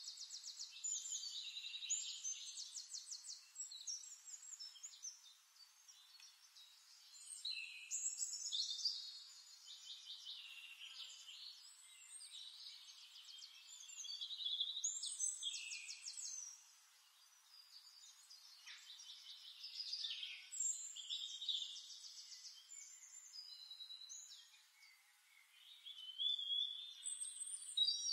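Songbirds chirping and singing fast trills, in phrases of a few seconds each with short pauses between them. No food-processor motor is heard under the birdsong.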